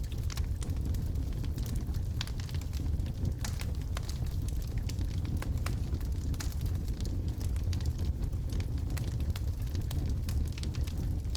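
Wood fire in a fireplace burning, with a steady low rumble and frequent irregular sharp crackles and pops from the burning logs.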